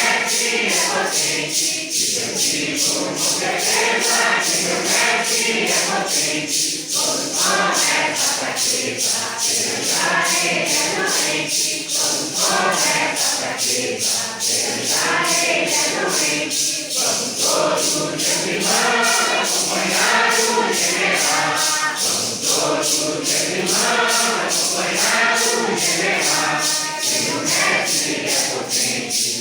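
A group of voices sings a hymn in unison, with shaken maracas keeping a steady beat of about two strokes a second.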